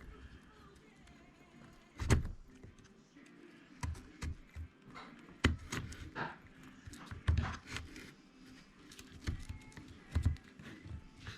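Scattered clicks and knocks of small RC-truck parts and tools being handled while a pin is fitted into the drivetrain, the loudest a knock about two seconds in.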